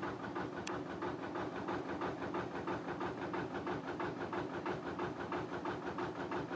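Narrowboat diesel engine running at low revs, with an even pulse of about six beats a second.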